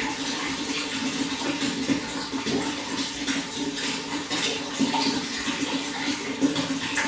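Running water flowing and splashing steadily, with a constant low rush under many small bright splashes.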